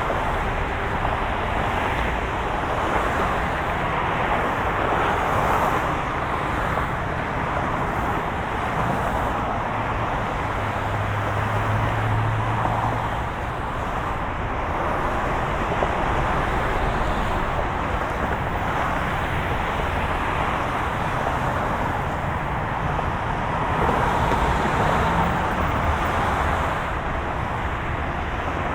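Moving car's road noise: a steady rumble and hiss of tyres and engine, with a brief low hum about halfway through.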